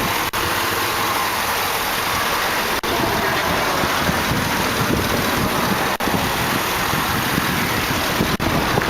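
A 2008 Chevrolet Tahoe's 5.3-liter Vortec V8 idling steadily, heard under the open hood.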